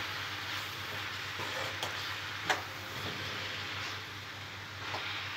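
Spinach and soaked chana dal sizzling in oil as a metal spatula stirs them in the pan, with a few sharp knocks of the spatula on the pan, the loudest about two and a half seconds in.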